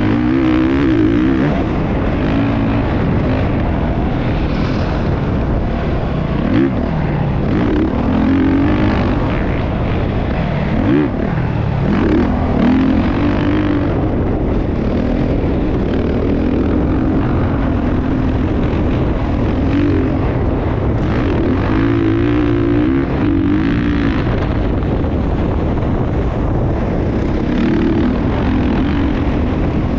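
Motocross dirt bike engine running hard, its pitch rising and falling as the throttle is worked.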